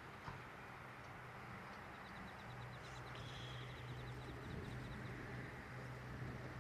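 Faint outdoor ambience: a low steady hum under a soft hiss, with a rapid high ticking trill starting about two seconds in and lasting about a second and a half.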